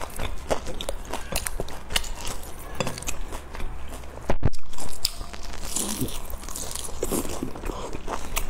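Close-up crunching and chewing of crisp pan-fried dumplings, with irregular crackly bites and wet mouth sounds. A brief louder bump about halfway through.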